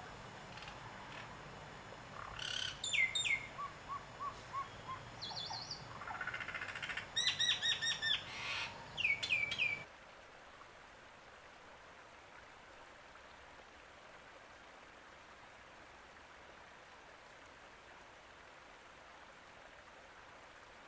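Birds calling and singing over a steady background hiss: repeated chirps and clusters of quick, falling whistled notes. About ten seconds in, the sound cuts off suddenly to a quieter, even hiss with no calls.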